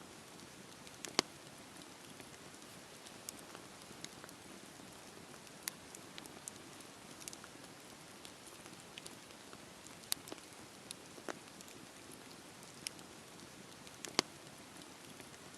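Campfire burning with a steady soft hiss and irregular crackles and pops, the sharpest snaps about a second in and near the end.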